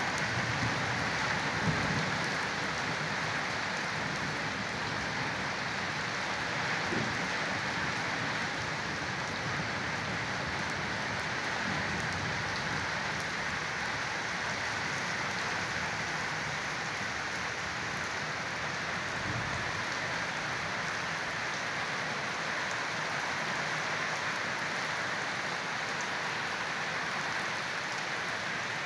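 Heavy rain falling steadily on a concrete yard.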